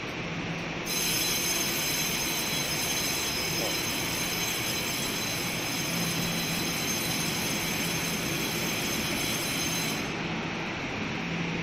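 Electric commuter train at a station platform giving out a high-pitched, many-toned squeal over a low rumble. The squeal comes in suddenly about a second in and cuts off near the end.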